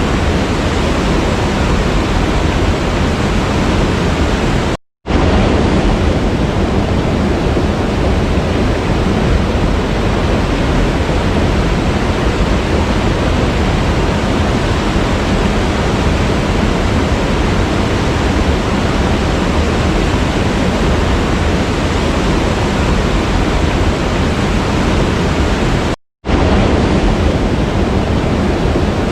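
Waterfall rushing: a steady, even roar of falling water. It cuts out completely for an instant twice, about five seconds in and near the end.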